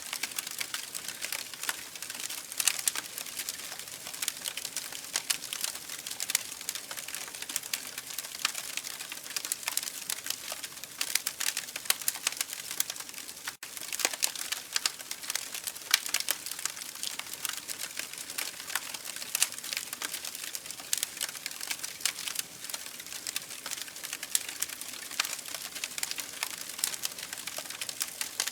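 Campfire crackling: a steady hiss of burning wood with dense, irregular sharp snaps and pops.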